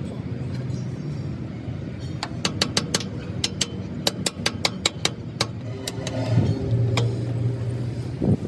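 A quick run of sharp metallic knocks, about four or five a second for some three seconds, with one more knock a little later, over a steady engine hum.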